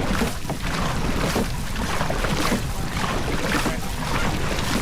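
Water splashing and rushing around a moving boat, with wind on the microphone; a swishing splash comes back roughly once a second.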